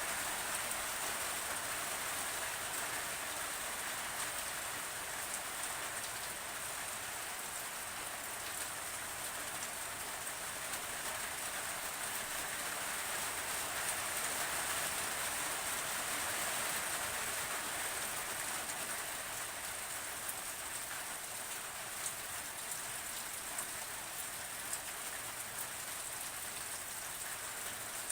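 Steady rainfall, a constant hiss of rain on a surface with scattered individual drop ticks.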